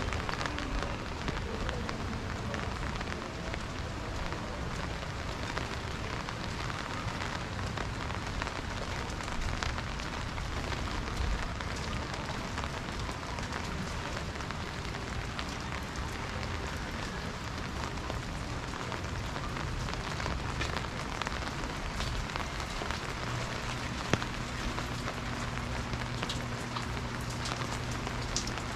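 Steady rain falling on street surfaces: a constant hiss with fine, scattered drop patter. A low steady hum joins near the end, and there is a single sharp click shortly before it.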